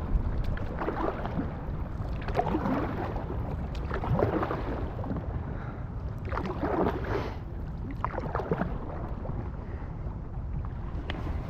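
Kayak paddle strokes splashing in the water about every two seconds, from an inflatable kayak being paddled on a river, over a steady low rumble of wind on the microphone.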